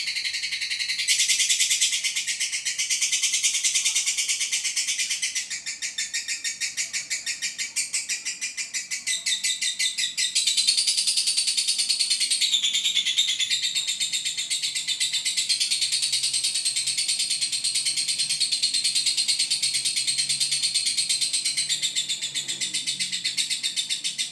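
Lovebird calling in a long, rapid, high-pitched chattering trill that runs without a break, shifting a little in tone about 5 and 10 seconds in.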